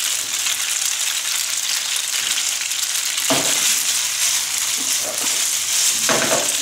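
Rigatoni and sliced courgettes sizzling in hot olive oil in a ceramic frying pan: a steady hiss, with two brief knocks about three and six seconds in.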